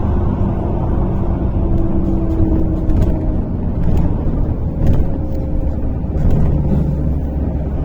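MAZ-103.485 city bus driving between stops, heard from inside the passenger cabin: a steady engine and road rumble with a faint drifting whine and occasional light rattles.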